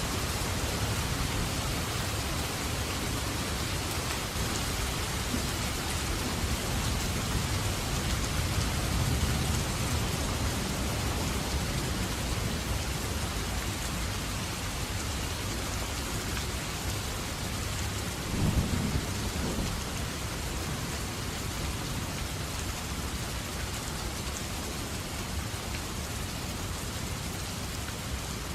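Steady heavy rain, with low rolling thunder about a quarter of the way in and a louder rumble of thunder about two-thirds of the way through.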